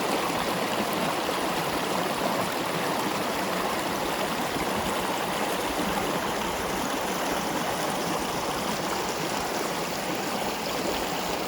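Creek water rushing, a steady, even rush that holds at the same level throughout.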